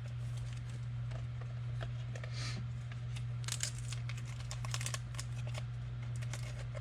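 Trading cards being handled and flipped through, with light rustling and scattered small clicks over a steady low electrical hum.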